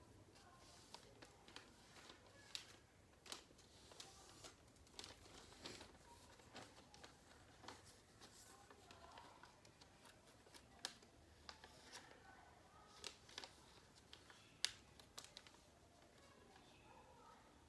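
Faint rustling and crinkling of a sheet of calendar paper being folded and creased into a paper airplane, with scattered sharp crackles as the folds are pressed down.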